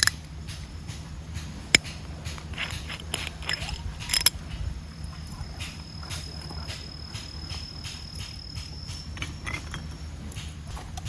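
Insects chirping in a steady repeating pattern, with a thin high trill in the second half, over a low steady rumble. A few sharp clicks or knocks come at the start, about two seconds in and about four seconds in.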